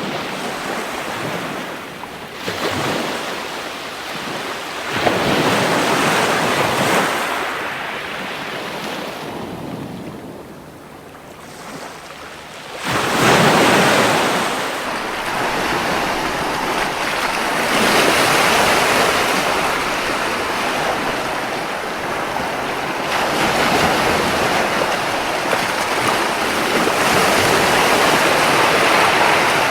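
Gentle ocean surf washing onto a beach in rising and falling swells, with a lull about ten seconds in before a louder wave breaks.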